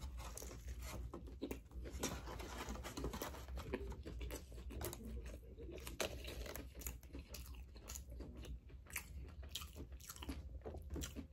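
A person biting into a fried chicken sandwich with sauce, then chewing steadily with many small irregular mouth clicks.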